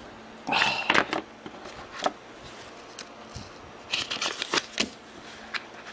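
Two short bursts of rustling and light clicking from the wooden handle blank and knife blade being handled close to the microphone, about half a second in and again around four seconds in.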